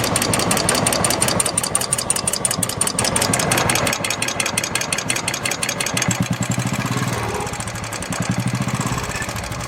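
Royal Enfield Classic 350 single-cylinder engine running at idle with a rapid, even tik-tik ticking from the valve train. The tick is the sign of a faulty hydraulic tappet (lifter).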